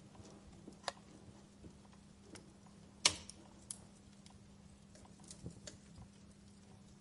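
Fire crackling in a fireplace: scattered sharp pops and snaps, the loudest about three seconds in, over a faint steady hum.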